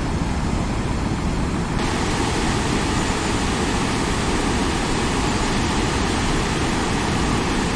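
Steady rushing of the swollen Sagami River running high with water released from the dam, a constant roar of flowing water that turns brighter and more hissing about two seconds in.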